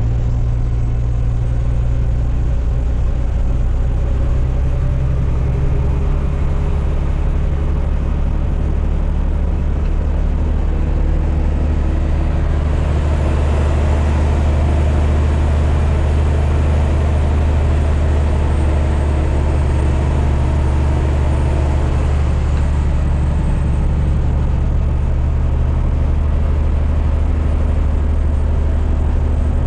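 Heavy dump truck's diesel engine running steadily, a deep drone, while hauling a load of gravel; the engine note shifts slightly about twelve seconds in.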